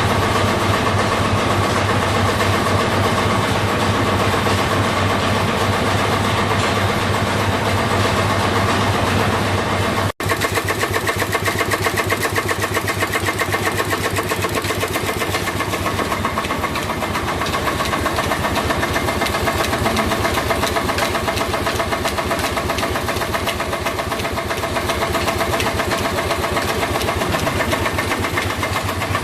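Stationary engines running steadily in an engine house. About ten seconds in, the sound breaks off for an instant and comes back as a fast, even beat of engine strokes.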